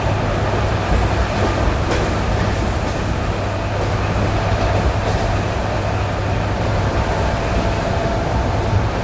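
ED9E electric multiple unit running on jointed track, heard from inside the car: a steady rumble of wheels on rails with a couple of knocks as the wheels cross rail joints. A steady whine comes in about halfway through.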